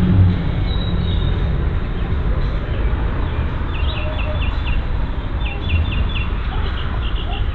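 A songbird singing two quick runs of short down-slurred notes, about four or five each, around four and six seconds in, over a steady low rumble.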